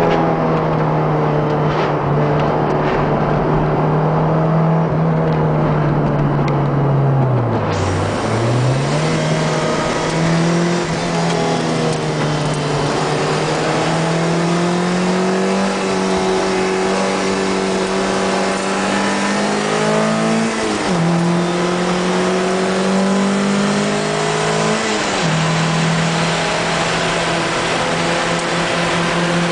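Lotus Elise 111S engine heard on board at racing speed, its pitch climbing slowly through long pulls. About 8 s in the revs sag and climb again, and near 21 s and again near 25 s the pitch drops suddenly at gear changes. Steady wind and road noise runs under it and grows louder about 8 s in.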